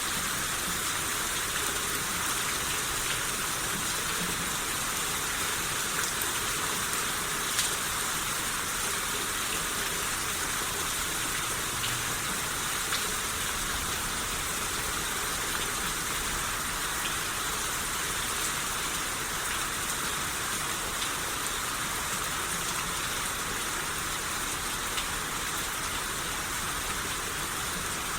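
Steady rain shower falling, an even hiss with scattered individual drops ticking, one a little louder about seven and a half seconds in.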